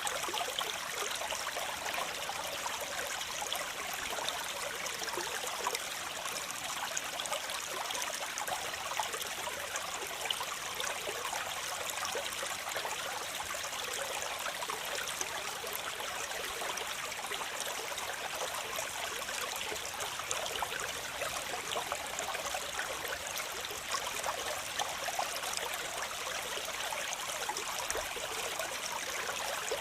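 Waterfall: a steady rush of falling, splashing water, bright and hissy with little deep rumble.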